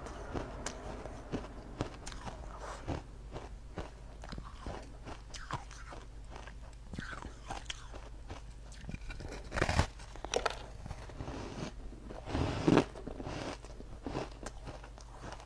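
A person biting and crunching ice close to the microphone: a run of crisp cracking bites, with two louder crunches about ten and thirteen seconds in.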